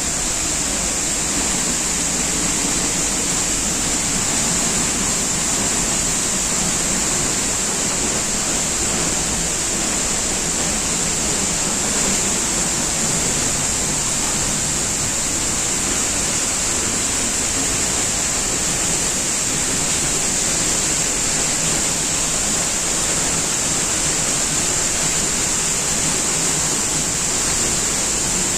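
Waterfall rushing steadily, with a steady high hiss over it.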